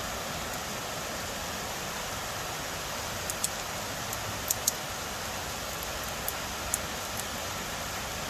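Steady rain hiss, with a few sharp ticks of single drops hitting close to the microphone from about three seconds in.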